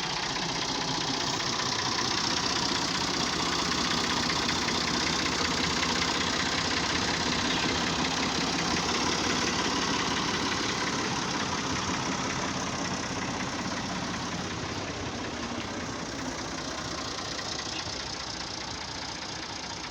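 Massey Ferguson 260 tractor's diesel engine running steadily at idle, growing a little quieter over the last few seconds.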